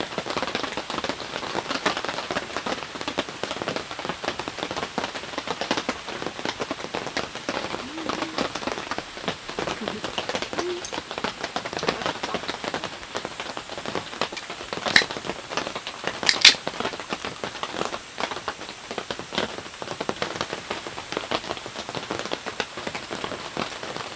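Heavy rain falling, a dense, even patter of drops. Two sharper clicks stand out about two-thirds of the way through.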